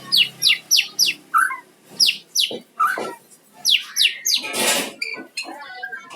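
White-rumped shama (murai batu) singing: a quick run of sharp whistled notes that each sweep downward, followed by further scattered notes and one harsh burst about four and a half seconds in.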